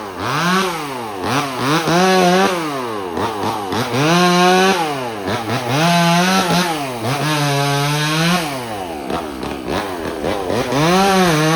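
Two-stroke chainsaw engine revved up and down about six times, each time climbing from idle to full speed, holding briefly, then dropping back; the longest hold comes near the middle.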